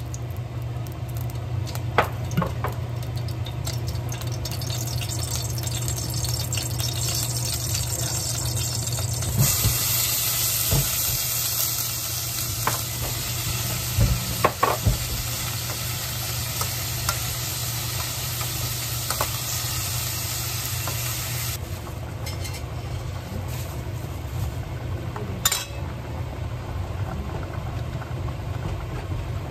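Beef and radish cubes frying in a pot on a gas stove, stirred with a metal spoon that clinks against the pot now and then. The sizzle is loudest from about a fifth of the way in until about two-thirds through, over a steady low hum.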